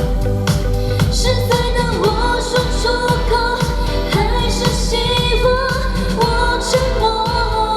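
Mandarin pop song: a singer's voice over a backing track with a steady beat.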